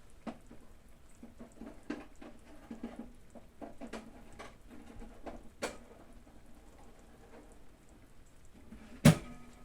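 Kitchen handling noises: scattered light taps, clicks and rustles as food and utensils are moved about, then one sharp loud knock of something hard set down or shut near the end.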